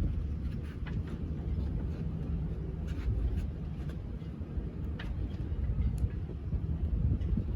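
Steady low rumble of a boat under way, with wind buffeting the microphone and a few faint clicks.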